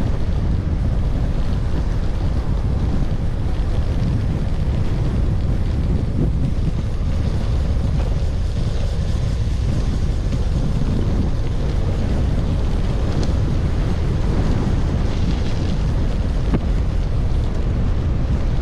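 Wind buffeting the microphone of a camera on a moving gravel bike, a steady low rumble with a few faint ticks from the ride.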